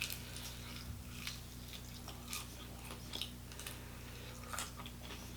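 Close-miked chewing and crunching of crispy fried chicken wings, with crackly bites about a second apart over a steady low electrical hum.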